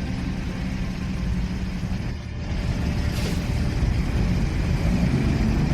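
A vehicle engine running steadily, a low rumble that dips briefly about two seconds in.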